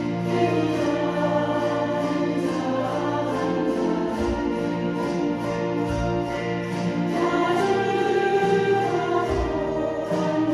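Ensemble of chromaharps playing a slow song, with strummed chords in a steady rhythm and sustained ringing notes that shift chord every few seconds.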